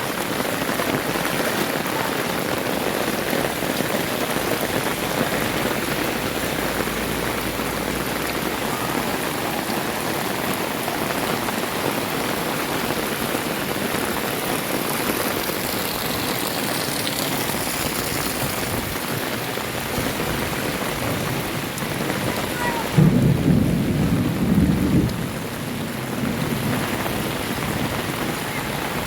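Heavy rain falling steadily, heard while walking through it. Near the end comes a louder low rumble lasting about two seconds.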